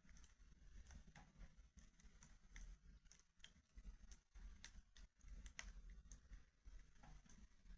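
Wood fire crackling faintly, with small, irregular pops and snaps.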